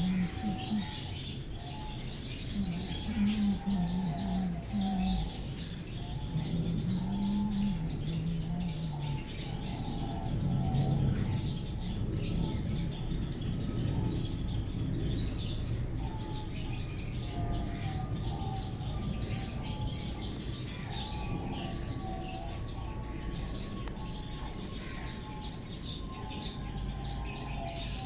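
Birds chirping in short repeated calls over a steady background hiss, with low cooing notes during roughly the first nine seconds.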